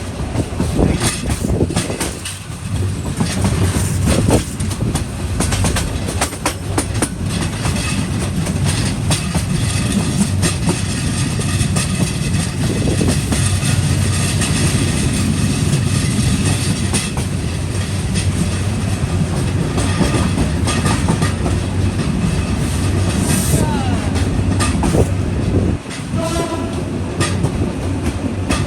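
Intercity passenger train rolling through a station: a steady low rumble with the wheels clattering over rail joints. A short horn note sounds near the end.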